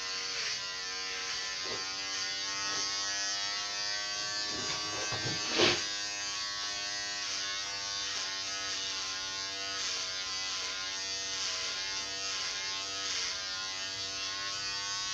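Electric clippers running steadily with a high motor buzz, the pitch sagging briefly now and then as the blades take a load. A single sharp knock a little before the middle is the loudest sound.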